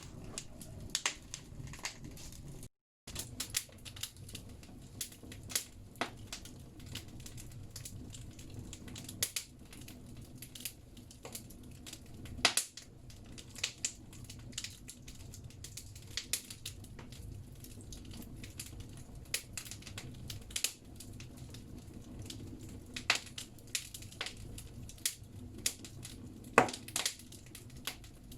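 Firewood logs burning in a bathhouse stove: irregular sharp crackles and pops over a low, steady rumble of the fire, with a few louder pops, one about twelve seconds in and one near the end. The sound cuts out completely for a moment about three seconds in.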